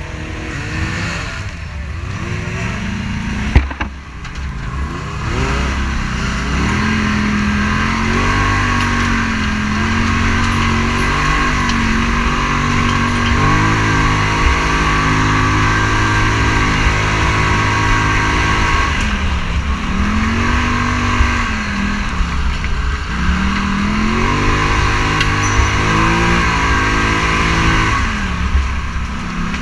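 Scrambler 1000's engine running under way off-road, its pitch climbing and dropping again several times as the throttle is opened and eased, over a steady rushing hiss of wind and terrain. A single sharp knock sounds about three and a half seconds in.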